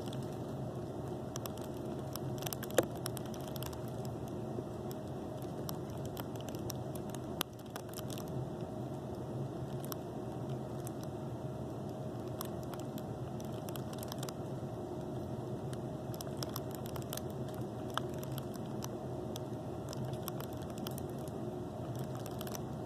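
Irregular scattered crackling and popping clicks, like popcorn popping, over a steady low room hum. One click a little under 3 seconds in stands out as the loudest.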